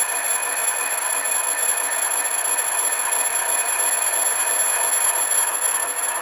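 Milling machine cutting metal with a brazed-insert cutter: a steady cutting noise with several high, constant whining tones over it.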